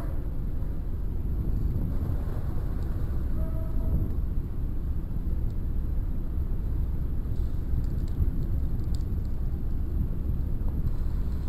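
Steady low rumble on the microphone, with a few faint ticks between about seven and nine seconds in.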